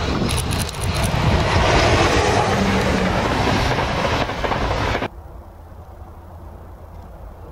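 Locomotive-hauled passenger train passing close at speed: a loud rush of wheel and rail noise with a few sharp clicks in the first second. It cuts off abruptly about five seconds in, leaving only a faint low rumble.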